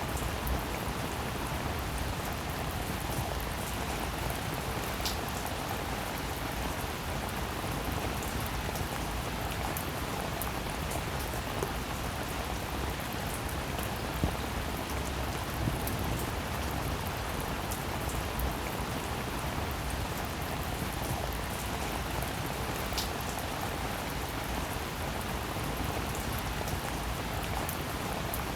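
Steady rain falling, an even hiss with scattered drops ticking, a couple of them standing out more sharply.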